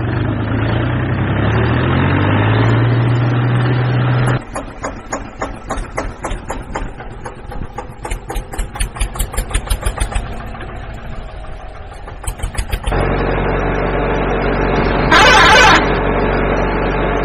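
Tractor engine running steadily and rising in pitch, then dropping into a slow chugging that quickens and eases off again, before it settles back into steady running. A brief, loud burst of noise comes about three-quarters of the way through.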